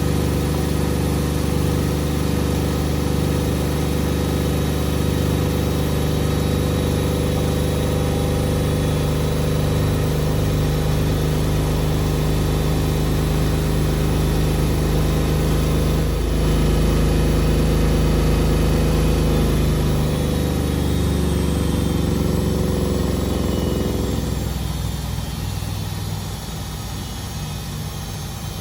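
Beko WMD 46160 washing machine spinning at speed with a steady motor whine and drum hum. In the last few seconds the spin winds down, the whine falling in pitch and the hum fading.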